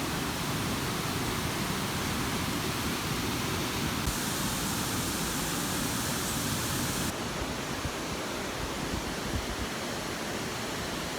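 A waterfall in monsoon flow, water rushing steadily over rock. The hiss brightens about four seconds in and dulls again about seven seconds in.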